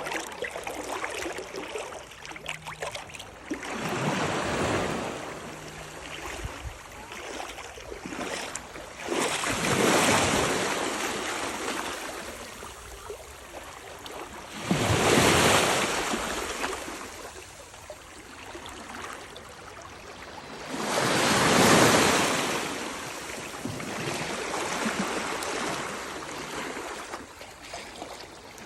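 Small Atlantic waves washing in at the shore, the surf rising and falling in four surges about six seconds apart, the loudest about halfway through and again about two-thirds of the way through.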